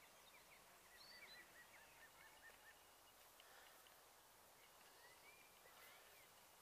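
Near silence with faint birdsong: a quick run of short chirps in the first seconds, then a few rising calls near the end.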